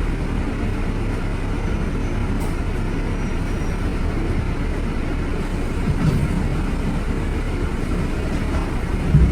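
Steady low rumble of city street traffic, with a brief louder low thump near the end.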